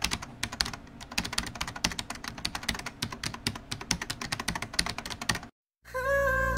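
A rapid, irregular run of sharp clicks that stops about five and a half seconds in. After a brief silence, music begins near the end.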